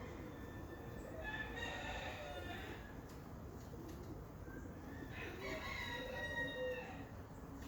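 Rooster crowing twice, each crow a long pitched call of about a second and a half.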